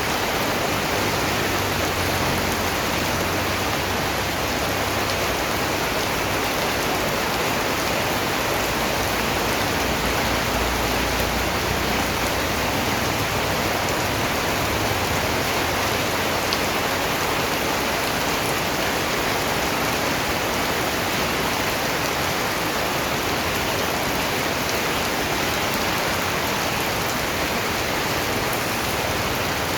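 Steady, dense rainfall pattering on surfaces, an even hiss without thunder or pauses.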